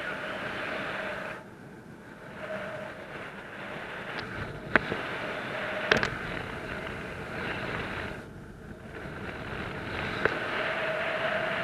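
Wind rushing over the microphone of a paraglider pilot's camera, dropping away twice, with a faint steady tone that comes and goes and three sharp clicks.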